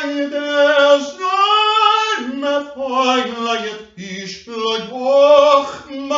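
A single unaccompanied voice singing long, held notes, each about a second, sliding between pitches with a slight waver and brief breaths between phrases.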